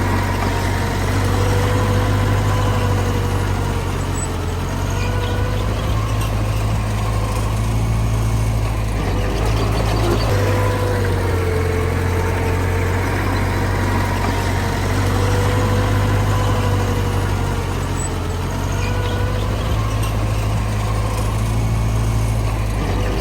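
Heavy diesel engine of earthmoving machinery running steadily, with a whine that wavers up and down every few seconds.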